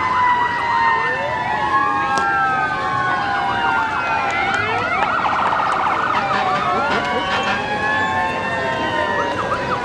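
Several emergency-vehicle sirens sounding at once, their tones sweeping up and down and overlapping, with a rapid warble about halfway through.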